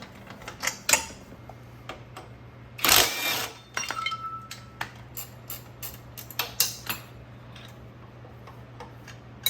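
Hand tools and metal motorcycle parts clicking and clinking at irregular intervals during disassembly, with a noisy burst lasting under a second about three seconds in, over a steady low hum.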